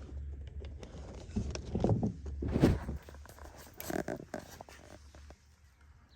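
Scattered clicks, knocks and rustles of someone handling gear while hooking a battery back up, over a steady low hum.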